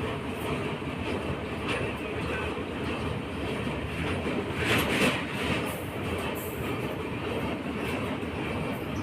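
Train running, heard from aboard: a steady rumble of wheels on the track with faint clicks, and a louder rush about five seconds in.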